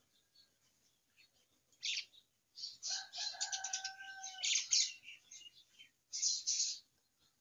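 Small birds chirping in quick high bursts, in three clusters. A steady held tone runs for about two seconds near the middle.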